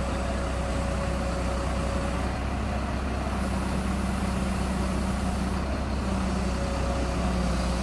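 Heavy engine of a mobile crane running steadily at constant speed: a low, even drone with a steady hum above it.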